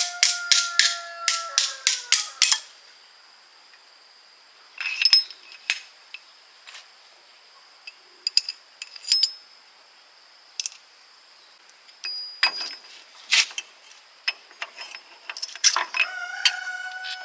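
A power wrench hammers in quick clicks over its motor whine, winding down after about two and a half seconds, then scattered metal clinks and knocks from tools and gearbox parts being handled. The wrench starts up again near the end.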